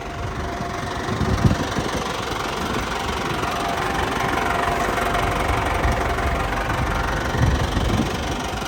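Cat 416B loader backhoe's turbocharged four-cylinder diesel engine idling steadily, getting louder over the first second or two.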